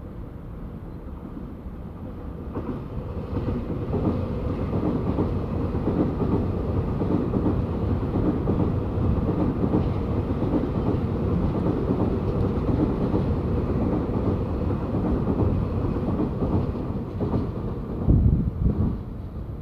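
A Taiwan Railways train running past at a station platform: a steady rush of wheels on rail with clattering over the joints that builds over the first few seconds. Near the end, a few heavy low gusts buffet the microphone.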